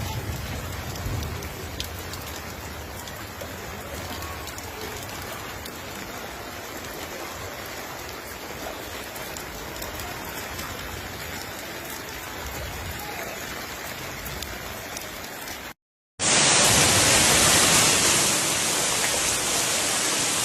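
Steady hiss of heavy rain and running floodwater. About sixteen seconds in it cuts out for a moment and comes back louder and harsher.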